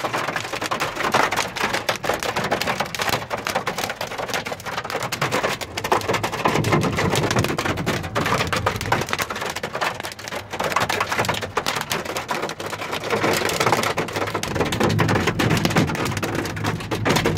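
Heavy rain mixed with hail pelting down, a dense, rapid clatter of small impacts over the steady hiss of the downpour.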